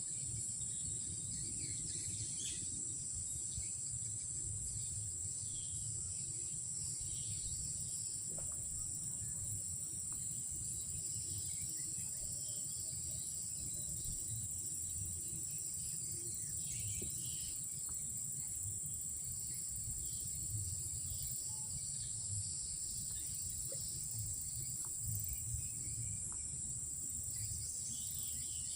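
Night insect chorus of crickets: a steady, unbroken high-pitched trill, with scattered fainter chirps. A low rumble runs underneath.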